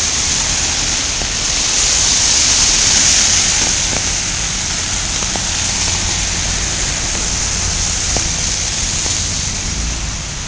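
Steady hiss of a heavy snowstorm falling on the street, with a low rumble underneath and a few faint ticks.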